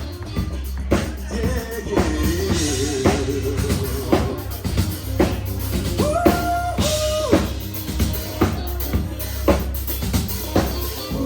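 Live band playing with the drum kit to the fore: steady kick, snare and rimshot strokes over a low bass line, with a few held notes from another instrument about six to seven seconds in. No singing.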